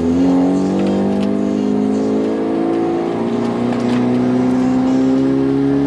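2014 Hyundai Genesis Coupe's turbocharged 2.0-litre four-cylinder engine pulling under acceleration, its revs rising slowly and evenly.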